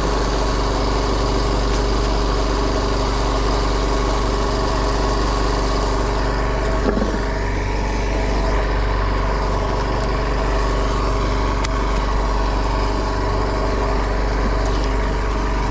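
Fishing boat's engine running steadily at constant speed, a continuous even hum.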